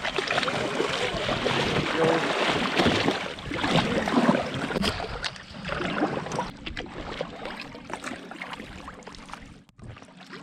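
Water splashing and washing around a paddled canoe, swelling and easing every couple of seconds with the strokes.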